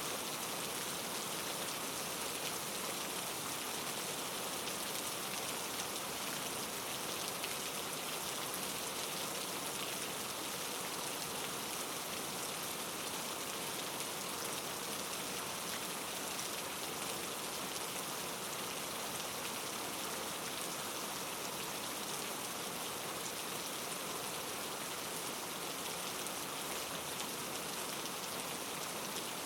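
Steady rainfall: an even hiss of falling rain, unchanging in strength.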